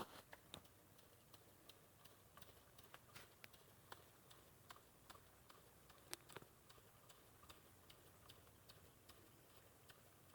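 Jensen #35 live steam engine running slowly, its boiler turned down to 55 volts on the variac: faint, light ticking, a few ticks a second and slightly uneven.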